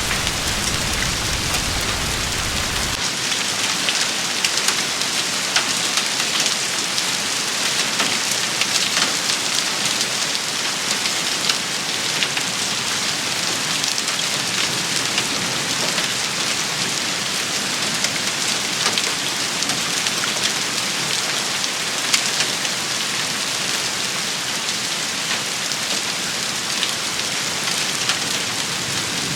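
Steady heavy rain shower pattering on a hard surface, with many sharp individual drop taps. A low rumble cuts off about three seconds in.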